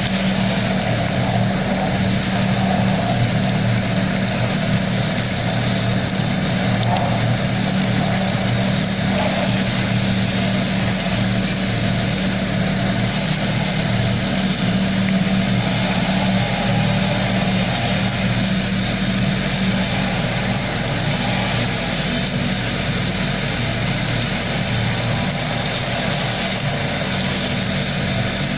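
Sandblasting equipment running steadily: a continuous motor hum with a hiss of blasting air over it.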